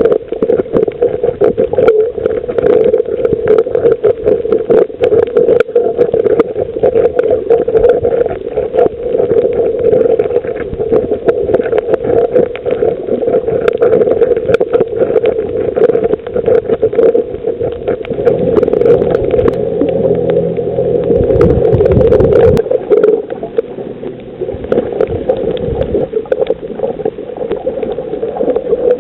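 Underwater sound on a coral reef: a steady, muffled rush of water with a constant crackle of fine clicks. A lower hum joins from about 18 seconds in and drops out about 23 seconds in.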